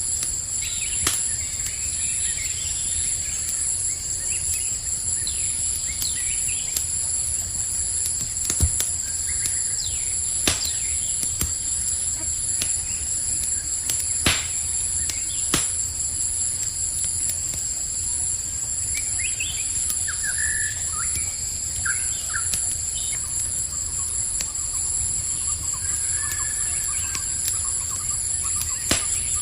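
Campfire crackling, with sharp pops every few seconds over a low rumble, while crickets chirp steadily. A few short bird chirps come in from about twenty seconds on.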